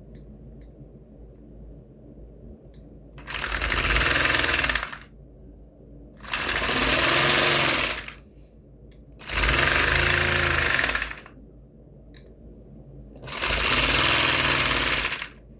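Breath blown and drawn through a small Lego piston engine that runs on breath, four breaths of about two seconds each, with the engine's piston and valve clattering rapidly while the air flows.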